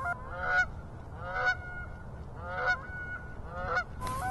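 Canada geese honking: five two-note honks, each breaking upward in pitch, about one a second.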